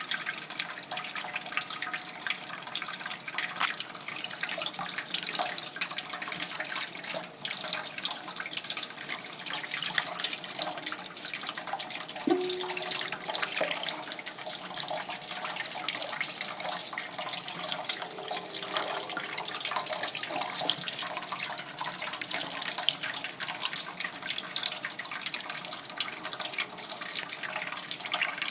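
Kitchen sink tap running steadily, the water splashing and dripping, with a short squeak about twelve seconds in.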